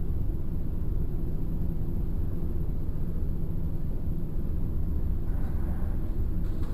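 A steady low rumble with no distinct events and no speech.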